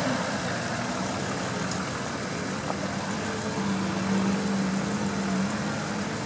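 Off-road vehicle engine running steadily at low revs, a level hum after a louder burst fades away at the start.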